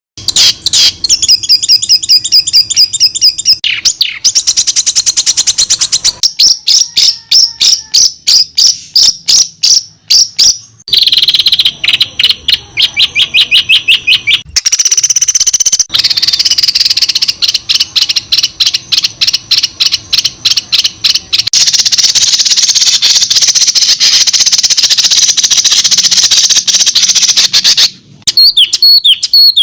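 Loud, rapid, repeated bird chips and trills in several abruptly joined segments, the pattern changing every few seconds, with a dense buzzy trill near the end. This is spliced songbird recordings played as song-training material for white-rumped shamas.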